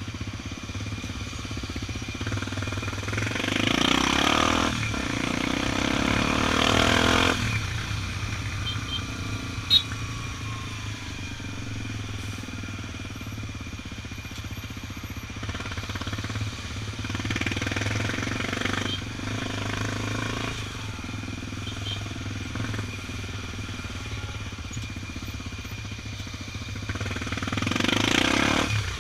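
Honda XR 250 Tornado's single-cylinder engine running steadily under way, with traffic around it. The sound swells louder a few seconds in and again near the end, and there is one sharp click about ten seconds in.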